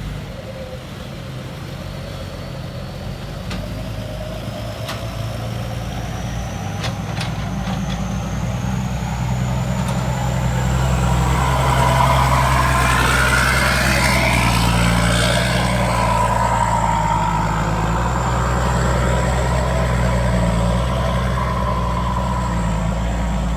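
Diesel dump truck engine running under load and drawing nearer, growing louder over the first dozen seconds and then holding steady. A thin high whistle climbs in pitch as it comes on.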